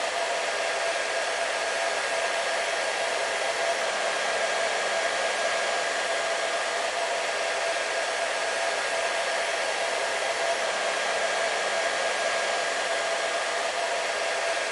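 Hair dryer running steadily: an even rush of air with a constant whine held at one pitch, unchanging throughout.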